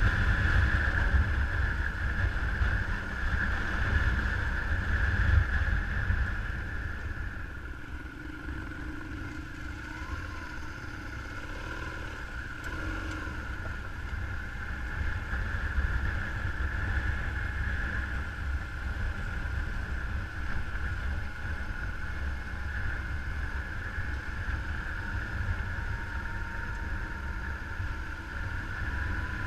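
Adventure motorcycle running along at a steady pace, with wind rumbling over the camera microphone. It eases off somewhat quieter for several seconds about a quarter of the way in, then picks back up.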